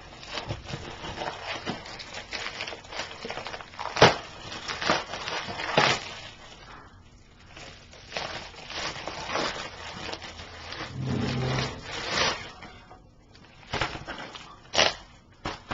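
A mail package being torn open by hand: packaging crinkling and rustling, broken by sharp rips and snaps at irregular intervals, the loudest about four and six seconds in and again near the end.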